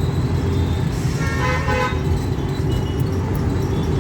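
An auto-rickshaw's engine running with a steady low rumble as it drives, and a vehicle horn sounding once for just under a second, about a second in.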